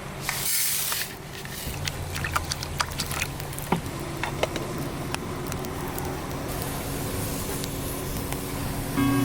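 Food sizzling over an open fire, with a loud burst of hissing in the first second, then a steady sizzle broken by scattered pops and crackles.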